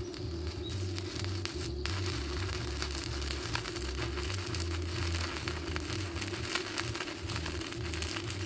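MIG welding arc crackling and sputtering steadily, with a low hum underneath.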